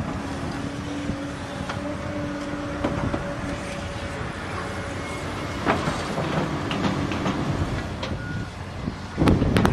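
Heavy construction machinery running, with a steady whine over the first few seconds, scattered clanks and knocks, and a louder surge near the end.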